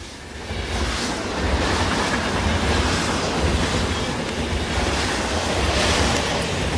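Wind buffeting the microphone: a steady rushing noise with a rumbling low end, building over the first second.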